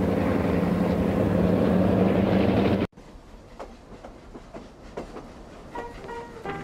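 A train running: a steady loud rumble with rail clatter that cuts off abruptly about three seconds in. After that only faint clicks remain, and soft music begins near the end.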